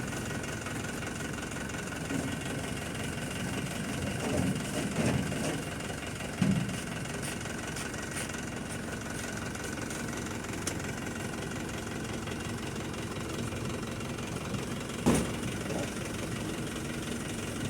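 Engine of road-works machinery running steadily at idle, with a few short thumps, the loudest about fifteen seconds in.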